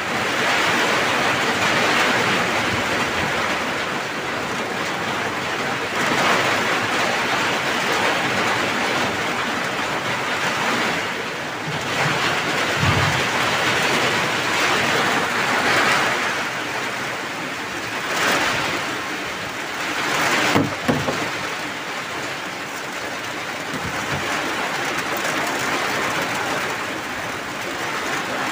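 Heavy downpour: a dense, steady hiss of rain that swells and eases in waves every few seconds. A brief low thump about three-quarters of the way through is the loudest moment.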